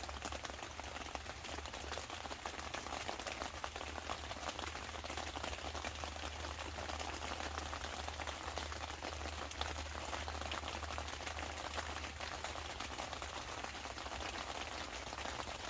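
Rain falling on the fabric of a truck-bed tent, heard from inside: a dense, steady patter of heavier drops.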